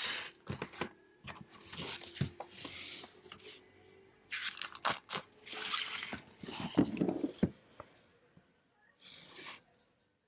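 Headphone packaging being torn open and handled: tearing and rustling in several separate bursts, with small clicks and knocks between them.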